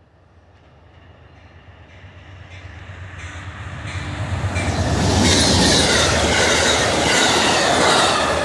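Amtrak passenger train led by a P42DC diesel locomotive approaching and passing close by. The engine and wheel-on-rail noise grows steadily louder for about five seconds, then stays loud as the train goes past.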